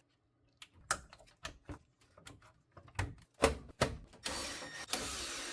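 Irregular clicks and knocks of parts being handled and fitted while a washing machine's control panel is reassembled. About four seconds in, a steady hiss begins.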